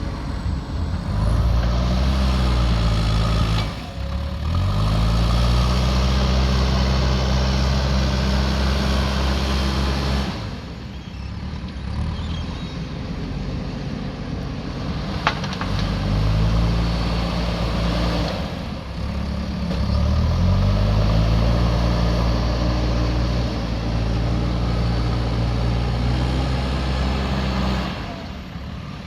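JCB backhoe loader's diesel engine revving up for long spells as the machine works, settling back toward idle between them. A single sharp click comes about halfway through.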